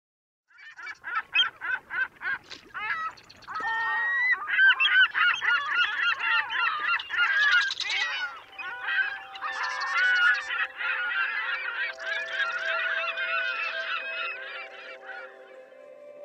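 A crowd of birds calling, many overlapping calls, starting as a quick run of repeated notes and fading out near the end. Soft music with long held notes comes in about halfway.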